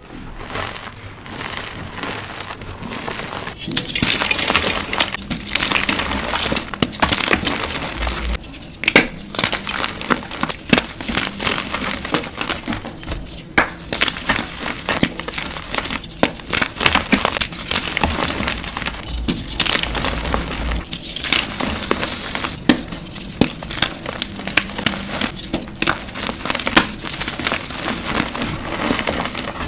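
Blocks of gym chalk being crushed: a dense run of crunching and crackling with many sharp snaps, growing louder about four seconds in.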